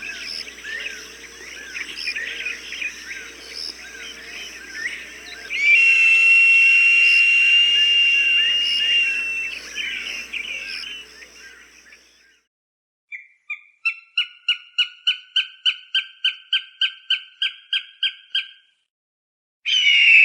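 Recorded hawk calls: first a stretch of small birds chirping under a long steady whistle-like tone, then, after a short pause, a quickening run of about eighteen sharp repeated calls, and near the end a loud harsh scream falling in pitch.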